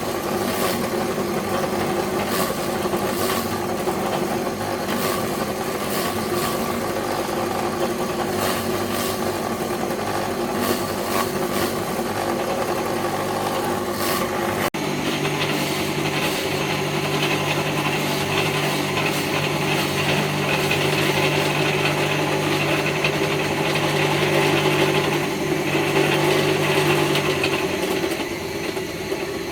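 A small motor running steadily. About halfway in the sound changes abruptly to a steadier hum with a stronger low tone.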